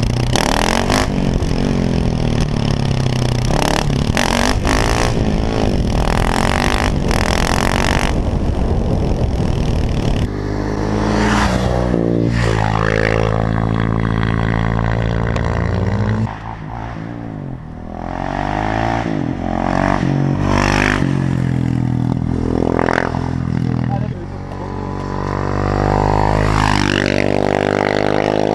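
KTM 690 SMC-R supermoto's single-cylinder engine through a Sebring aftermarket exhaust, revving hard through the gears as it rides past several times. The pitch climbs and falls with each gear change and pass, and the loudness dips suddenly a few times between passes.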